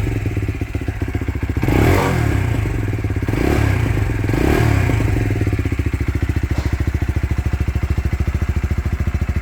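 Lexmoto LXR 125 SE's single-cylinder 125cc four-stroke engine being blipped a few times, the revs rising and falling. About halfway through it settles to a steady idle with an even, pulsing beat.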